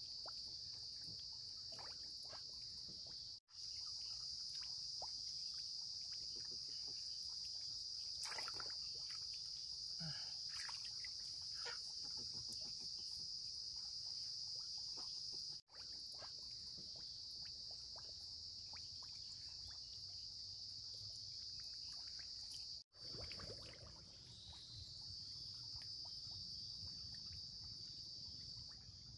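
A steady, high-pitched chorus of insects, with a few faint clicks and knocks underneath. The sound drops out for an instant three times.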